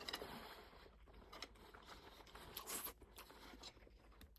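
Near silence, with a few faint, short clicks and scrapes scattered through it.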